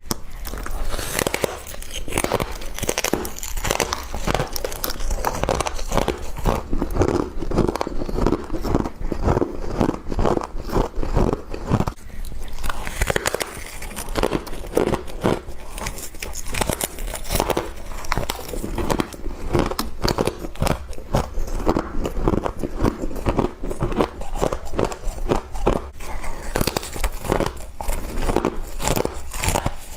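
A person biting and chewing frost, crunching and crackling continuously as it breaks up in the mouth.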